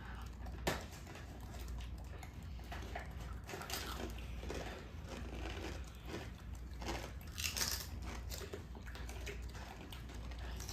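Faint, irregular crunching of crunchy cheese-flavoured snacks being chewed, with one sharper click about a second in, over a steady low hum.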